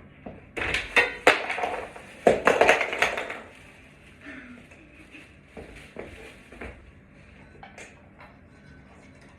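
Loud crinkling and rustling with several sharp clicks during the first three seconds, then a few faint scattered clicks and knocks: objects or packaging being handled.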